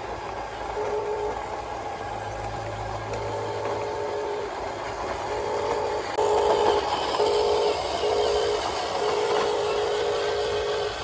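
Electric motor and gearbox whine of a Huina 1573 RC dump truck, running in short stop-start spurts and louder from about six seconds in.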